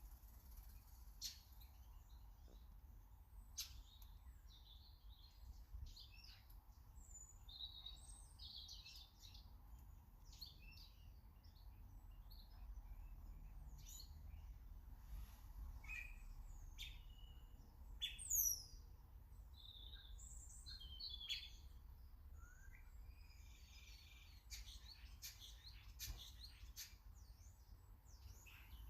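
Faint garden birds chirping and calling in a scattered chorus of short high notes, with occasional sharp ticks and one louder high sweeping call about two-thirds of the way in.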